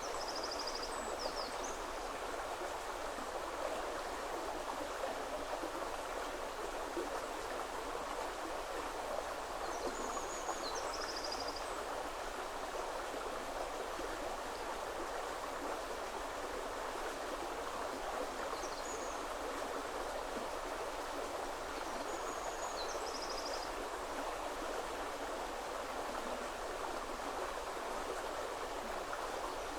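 River water flowing steadily over its bed. Over it, a small bird sings short high chirping phrases four times, roughly every six to ten seconds.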